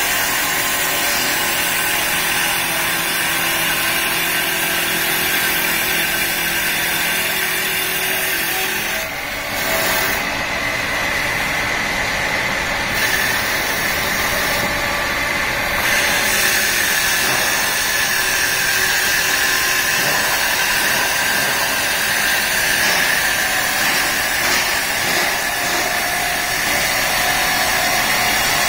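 Two-spindle CNC wood lathe (CW-1520-2) running and turning wood, a steady machine whir with cutting noise. The level dips briefly about nine seconds in, and the tone of the sound changes after it.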